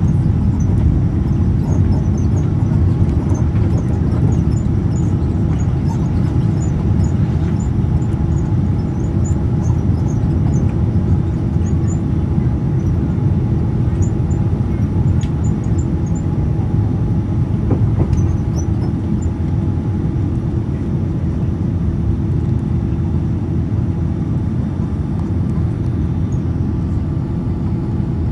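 Steady low rumble inside the cabin of a Boeing 787-9 with Rolls-Royce Trent 1000 engines: engine and airflow noise heard from a passenger seat, easing slightly in level towards the end.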